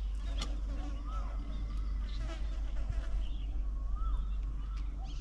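Wild birds calling around a feeding table: a short whistled note that rises and falls about a second in and again about four seconds in, with scattered higher chirps, over a steady low hum.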